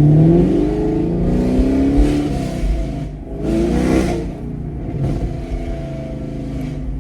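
Chevrolet Camaro SS V8 with full bolt-on modifications accelerating hard. Its engine note climbs in pitch over the first couple of seconds, surges again about four seconds in, then settles to a steadier, lower drone.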